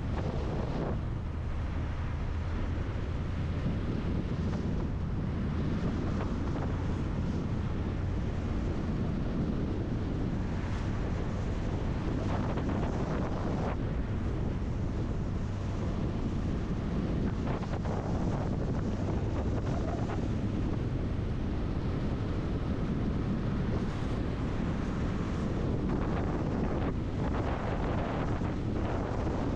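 Steady driving noise of a motorhome on the road: a low engine and tyre drone with wind rushing over the microphone.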